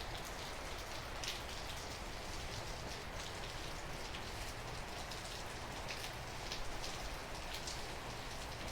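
Heavy rain falling steadily, with individual drops and drips tapping on a surface close by.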